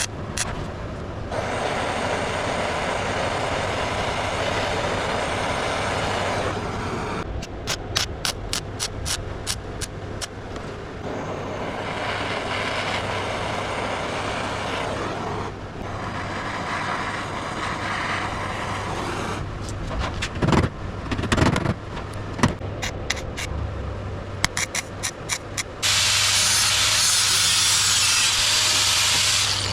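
Welder plug-welding a steel bonnet-seal strip onto a car's front valance: long crackling welding runs of several seconds alternate with bursts of rapid clicking, over a steady low electrical hum. Near the end a louder, brighter steady hiss takes over.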